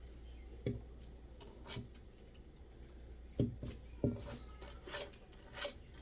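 Scattered light knocks and scuffs of a mouse and a massasauga rattlesnake scrambling on wood and substrate in an enclosure, as the mouse leaps at the snake and knocks it off its log. The sharpest knocks come about three and a half and four seconds in, over a steady low hum.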